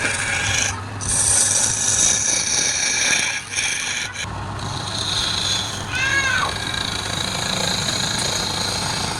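Wood lathe running with a turning tool cutting the spinning wood: a steady scraping hiss over the motor's low hum, broken briefly twice as the tool comes off the work.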